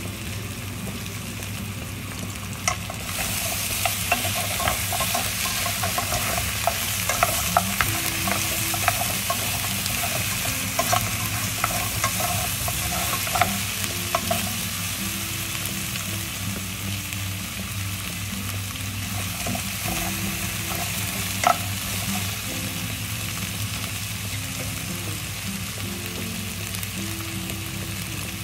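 Pork trotters frying in oil in a pot with shallots and garlic, sizzling steadily, louder from about three seconds in. Tongs clack against the meat and the pot as the pieces are turned through the first half, with one sharper clack past the middle.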